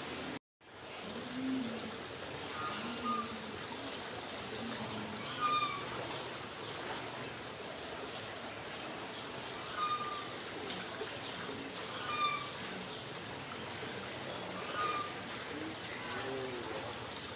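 Bird calls: a sharp, high chirp repeated about once every second or so, with softer, lower chirps between.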